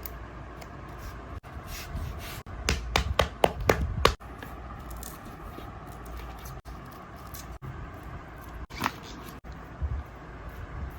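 A quick run of sharp clicks and scrapes about three seconds in, and one more near the end, over a steady low hum.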